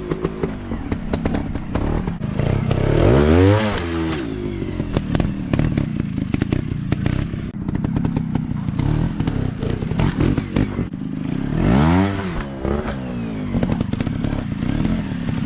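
Small off-road motorcycle engines running and revving, with two big surges that climb in pitch and drop back, about three seconds in and about twelve seconds in. Frequent clattering and knocks run through it.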